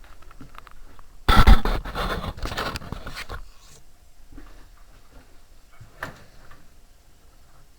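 Scraping and clattering of parts and tools being handled during washing-machine reassembly: a loud burst lasting about two seconds, then a few light knocks and clicks.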